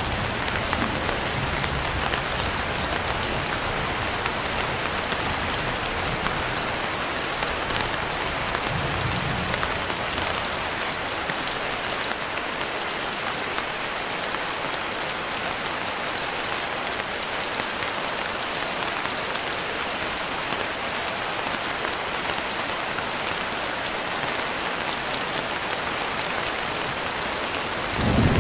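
Steady, dense rain falling, an even hiss of drops. A low rumble of thunder dies away at the start and returns faintly about nine seconds in.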